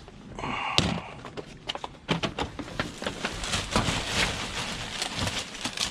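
Rummaging through a plastic garbage bag of discarded goods: the bag rustles and items knock and clatter in a quick run of short clicks and rustles.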